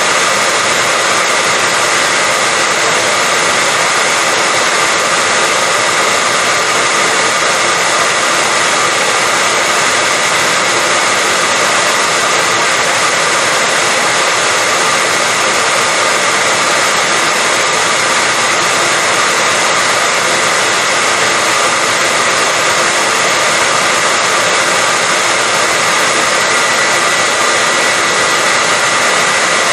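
Hair dryer running steadily: a constant loud rush of air with a faint high whine held at one pitch, never changing in speed.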